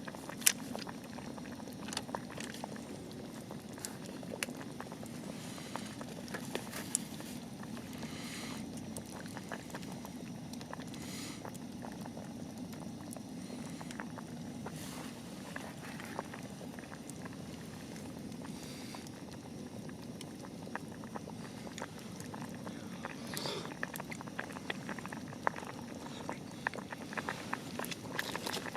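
A pot of shabu-shabu broth simmering, a steady low bubbling with scattered sharp clicks.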